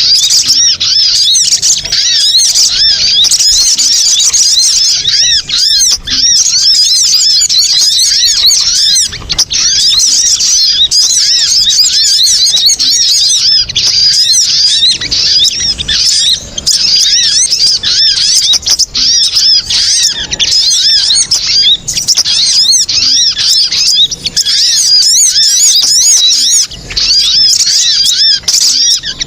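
Sogon bird calls played as a trapping lure: dense, rapid, high-pitched chattering notes, almost unbroken, with a few brief pauses.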